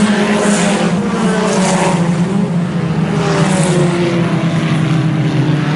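A pack of IMCA Sport Compact race cars running on a dirt oval, several four-cylinder engines droning together and rising and falling in pitch as they race through the turns.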